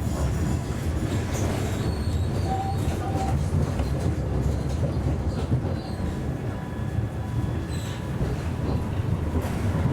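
Siemens Avenio tram under way, heard from inside: a steady rumble of wheels on rail and running gear.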